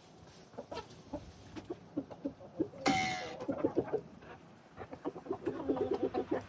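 A flock of chickens clucking in short, soft calls, with one louder, harsher squawk about three seconds in and a quick run of clucks near the end.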